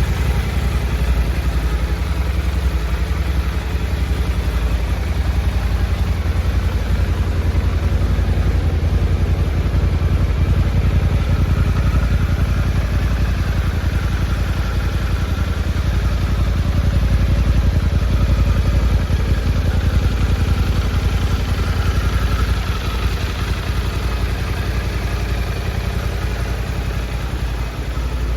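Suzuki V-Strom 800's 776 cc parallel-twin engine idling steadily, a little quieter for the last few seconds.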